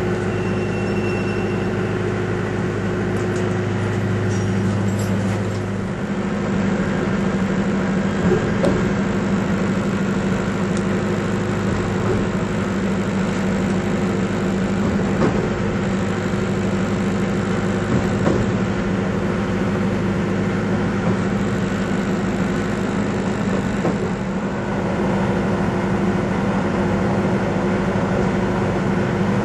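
A moving train: a steady drone of engine and running gear, with a few faint knocks. A low hum in it stops about six seconds in.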